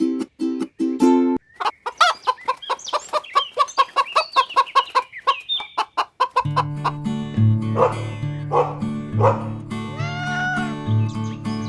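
Chickens clucking in a fast run of short, repeated calls, followed by a few louder clucks and squawks over background music with a steady bass line.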